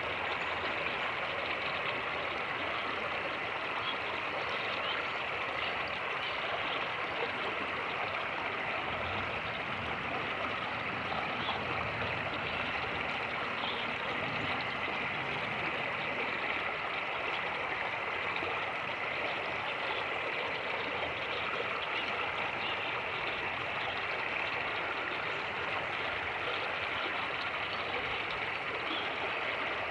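Fast-moving creek rushing over rapids: a steady, even rush of water.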